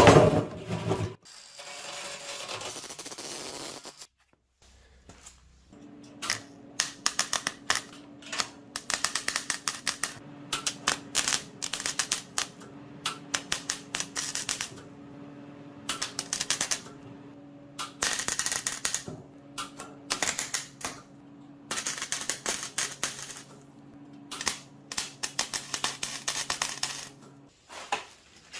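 A loud knock, then a hand ratchet clicking rapidly in short repeated bursts as bolts are turned, over a steady low hum.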